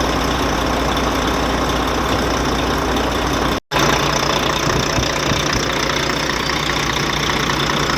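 Volvo truck diesel engine idling steadily, running smoothly now that the faulty injector behind its misfire and white smoke has been dealt with. The sound cuts out completely for a split second about halfway through, and the engine's hum changes slightly afterwards.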